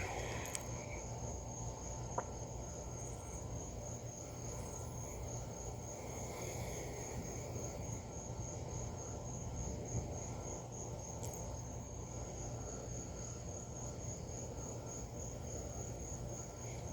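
Crickets chirping in a steady, even pulse, one high trill over a faint low background rumble.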